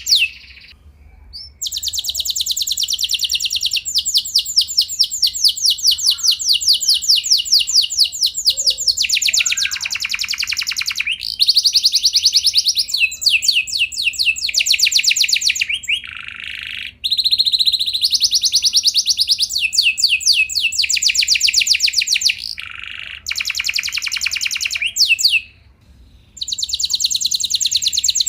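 Domestic canary singing long trilled rolls: fast runs of rapidly repeated notes, each phrase lasting several seconds, with brief pauses between phrases.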